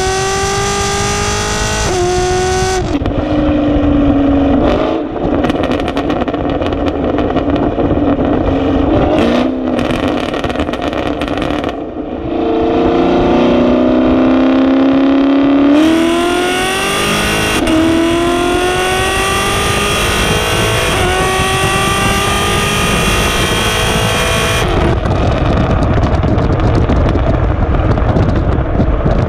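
6th-gen Camaro SS's 6.2-litre V8 accelerating through the gears on Texas Speed 2-inch long-tube headers, X-pipe and factory NPP exhaust: the exhaust note rises in pitch, drops at each upshift and climbs again, then falls away when the throttle is lifted near the end.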